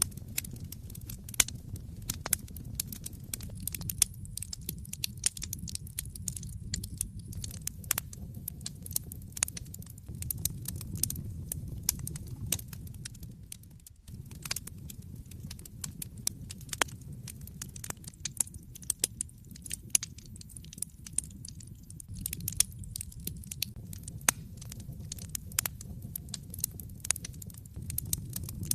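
Wood fire burning in a fireplace: dense, irregular crackles and pops over a low steady rumble of the flames, briefly dropping away about halfway through.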